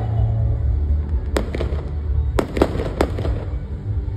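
Aerial fireworks shells bursting: a sharp bang about a second and a half in, then three more in quick succession over the next second, over a deep rumble.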